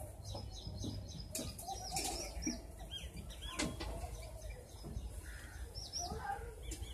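Several birds calling: many short, high, arched chirps throughout, with lower gliding calls underneath, over a steady low background rumble.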